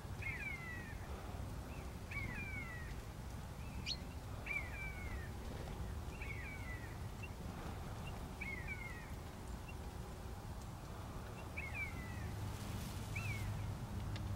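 A bird calling seven times, roughly every two seconds, each call a short squeaky note that slides downward, over a low steady background hum.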